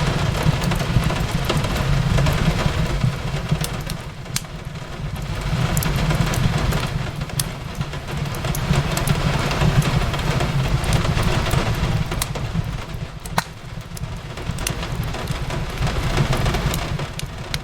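Steady rain on a window mixed with a crackling fireplace: a continuous rumble and hiss that swells and eases, with scattered sharp pops from the fire.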